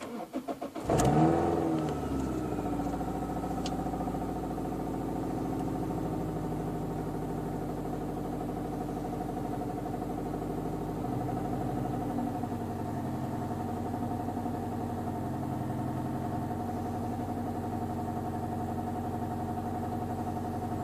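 Toyota Corolla TS's supercharged 2ZZ-GE 1.8 four-cylinder engine, fitted with a Blitz supercharger and Blueflame exhaust, cranking briefly and catching about a second in with a short rev flare, then idling steadily.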